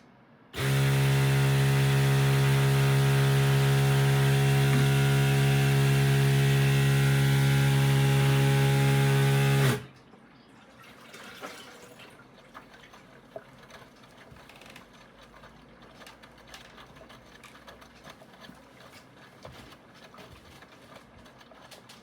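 Direct-drive motor of a 1 kg mini washing machine running under load mid-wash, a steady hum with water churning, for about nine seconds before it cuts off suddenly; faint clicks and trickling follow.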